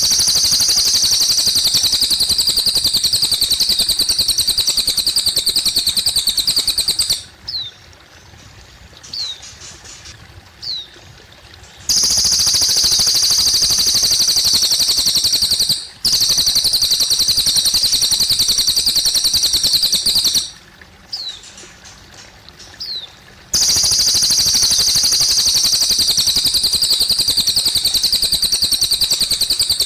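Cililin bird singing long, very rapid high trills of several seconds each, with short falling chirps in the pauses between them, over steadily trickling water.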